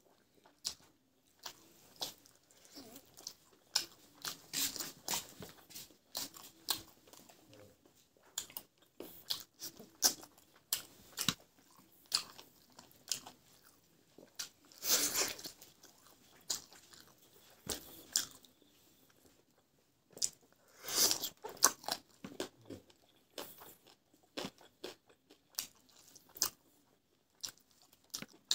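Close-miked eating sounds: a person chewing and biting on roasted chicken and rice eaten by hand. Many short wet clicks, with a few louder bites scattered through.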